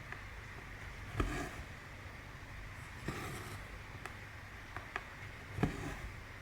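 Cross-stitching on 14-count fabric: soft taps of the needle going through the cloth, three of them followed by a brief swish of thread being drawn through, over a steady low hum.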